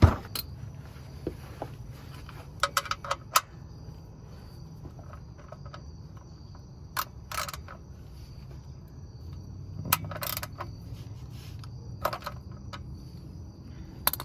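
Scattered sharp metallic clicks and clinks of hand tools and car parts being handled, the loudest right at the start and a quick cluster a few seconds in. Under them run a steady low hum and a continuous high insect trill.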